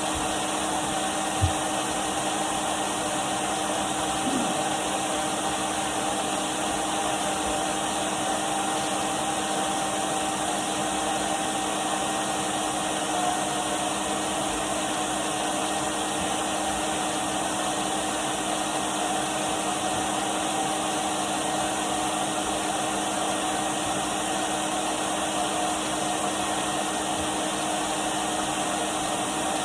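Numatic Henry cylinder vacuum cleaner running steadily, a constant rush of air with a steady whine over it. There is a brief knock about a second and a half in.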